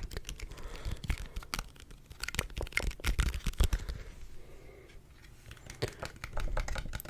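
Fingertips of one hand tapping on a surface close to a sensitive microphone: quick, irregular crisp taps, dense at first, thinning out and quieter midway, then picking up again near the end.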